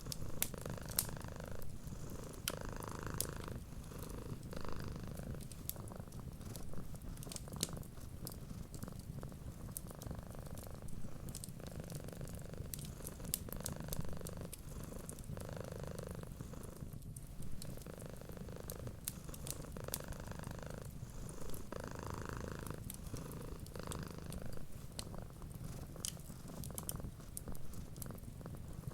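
Domestic cat purring steadily, swelling and easing in a slow in-and-out rhythm, with the irregular small snaps and crackles of a fireplace fire.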